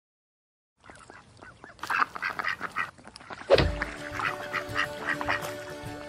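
Ducks quacking in quick runs of calls, starting about a second in. About halfway through, a low thump and background music with held notes come in under the quacking.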